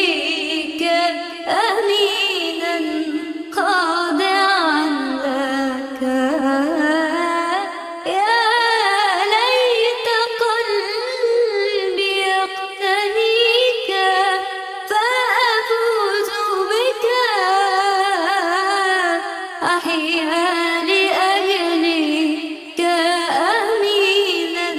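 Arabic Christian hymn music: a solo singer carries an ornamented melody with a wavering pitch, over musical accompaniment.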